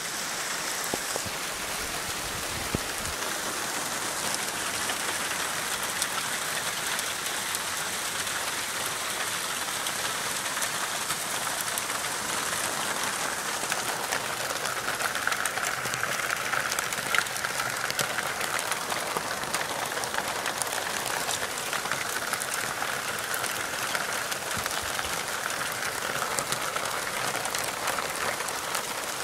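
Hail shower: a steady dense hiss of falling hailstones, with many small sharp clicks of individual stones hitting.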